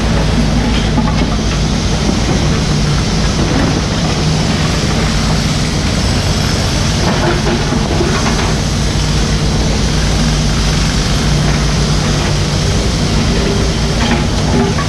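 Mini excavator's diesel engine running steadily, with a few faint knocks over it around the middle and near the end.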